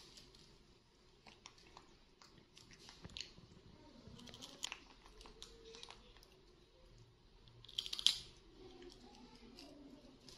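A toddler and a baby macaque chewing crunchy snack sticks: small scattered crunches and clicks, with a louder cluster about eight seconds in.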